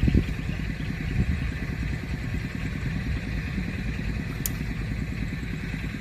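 A small engine running steadily at an even speed, with a knock just after the start and a lighter one about a second in.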